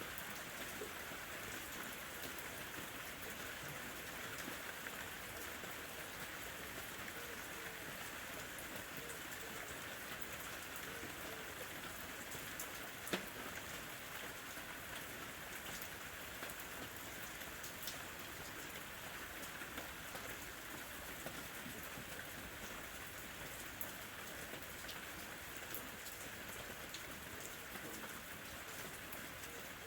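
Steady rain falling, an even hiss with scattered individual drop strikes, one sharper and louder about 13 seconds in.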